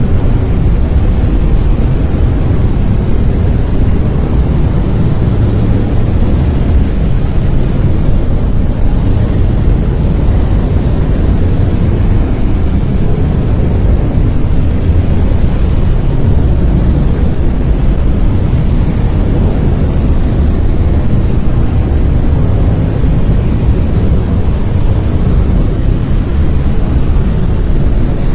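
Brown noise: a steady, loud, deep rushing hiss weighted toward the low end, like a distant waterfall or wind, with no changes.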